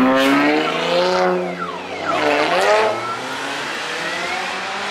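A car's engine revving hard as it pulls away, its pitch climbing in several rising sweeps and dropping back between them, then running lower and steadier in the second half.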